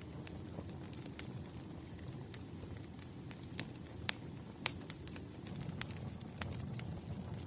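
Wood fire burning: a low steady rumble of flames with irregular sharp crackles and pops from the burning logs, two louder pops a little past the middle.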